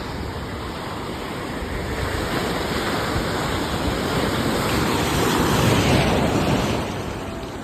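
Sea waves washing in, one swell building to its loudest about six seconds in and then falling away.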